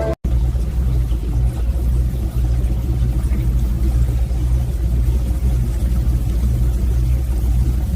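A steady low rumble with a slight pulsing.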